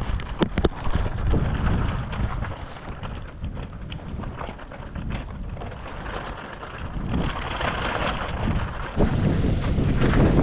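Wind buffeting the microphone in gusts, a low rumble that eases in the middle and picks up again near the end, with a couple of sharp clicks about half a second in.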